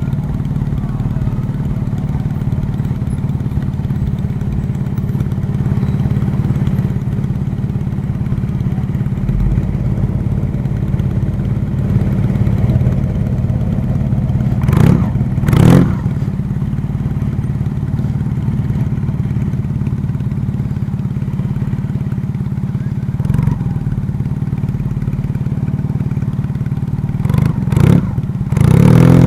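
A vehicle engine running steadily, with short loud bursts twice about halfway through and several more near the end.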